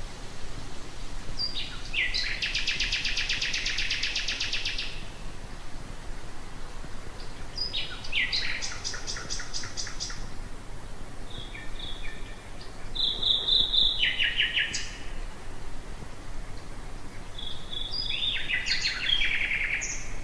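Common nightingale singing: four separate phrases with short pauses between them. Most phrases are fast rattling trills of rapidly repeated notes, some led in by short clear whistled notes. A faint low hum and hiss sit underneath.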